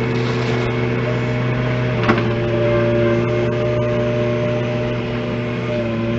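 An engine running steadily at constant speed, with one short knock about two seconds in.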